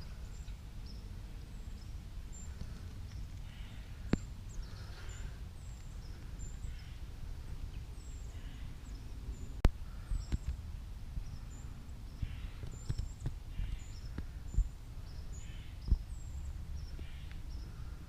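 Outdoor ambience: a steady low rumble with small birds chirping in short high notes over and over, and a few sharp knocks, the loudest about ten seconds in.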